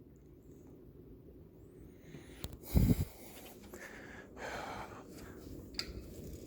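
Litex Diamond Crystal ceiling fan running with a steady low hum, the humming noise this fan is known to make. A single loud thump comes about three seconds in, with a few faint clicks later.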